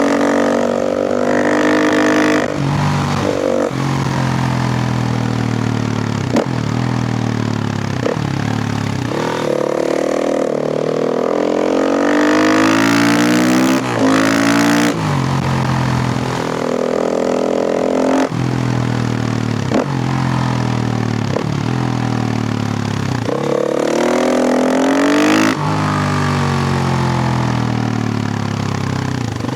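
KTM EXC 450's single-cylinder four-stroke engine ridden hard: the engine note climbs again and again as it accelerates, then falls off, with short breaks in the sound every few seconds.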